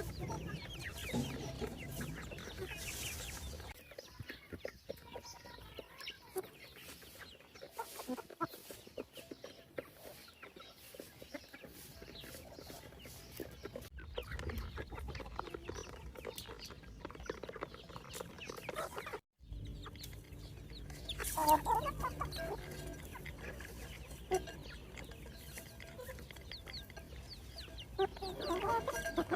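A flock of free-range chickens clucking and calling, with short calls scattered throughout and a louder burst of calls about two-thirds of the way through. The audio drops out for a moment near the 19-second mark, as at an edit.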